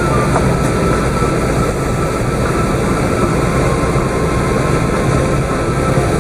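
Steady cabin noise inside an Airbus A380: engine and airflow noise heard from an upper-deck window seat, even and unchanging throughout, with a faint steady whine in it.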